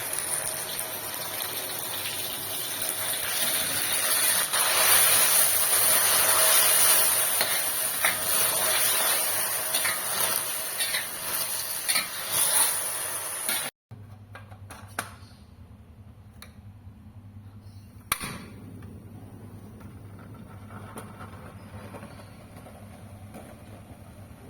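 A loud, steady hiss with scattered small crackles cuts off suddenly about fourteen seconds in. A much quieter stretch follows, with a low hum and a few soft clicks, one of them sharper, about eighteen seconds in.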